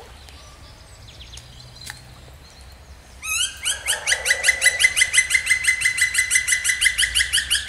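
A bird's loud, rapid trill: about three seconds in, a string of evenly repeated whistled notes, about eight a second, starts with a short upward slide and runs for over four seconds over the faint murmur of a small stream.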